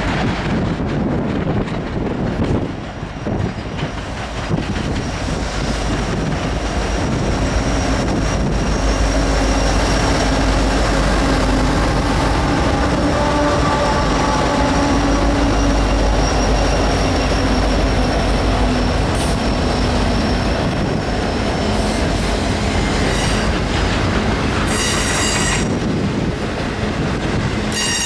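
Union Pacific freight train passing close by, a steady heavy rumble of rolling steel wheels on rail. Held high squealing tones rise and fall over it, and short sharper squeals come near the end.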